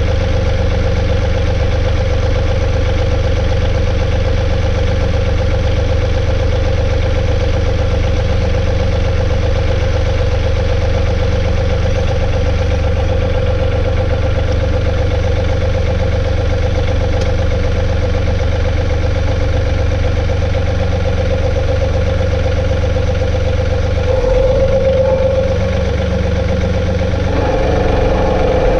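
Compact tractor's three-cylinder diesel engine running steadily, its note changing about two-thirds of the way through and rising slightly near the end.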